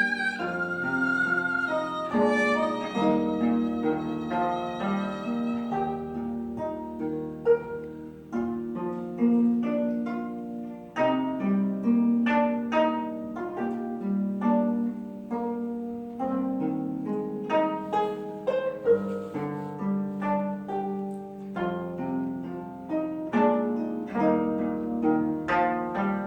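Haegeum, the Korean two-string bowed fiddle, playing sustained melody notes over gayageum, the Korean plucked zither, whose plucked notes come thick and fast through most of the passage.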